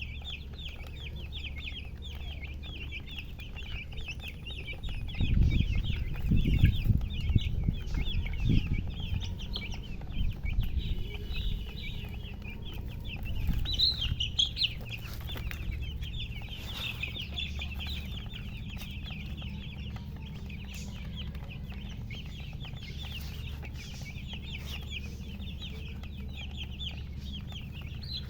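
A brood of baby chicks peeping continuously: many quick, high, falling cheeps overlapping without a break. A low rumble underneath swells into louder low thumps between about five and nine seconds in.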